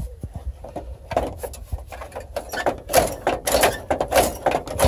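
A GMC dashboard being torn apart by hand: a rapid run of knocks, cracks and rattles as its panels and clips are pulled loose, busiest from about a second in.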